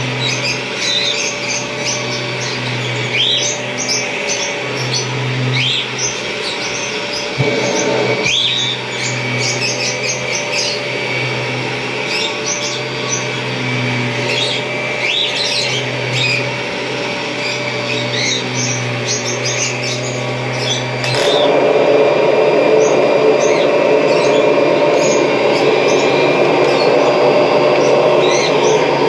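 1991 Kirby Generation 3 upright vacuum cleaner running steadily with a low hum, short high chirps sounding over it. About two-thirds of the way through the sound changes: the hum drops out and a louder rushing noise takes over.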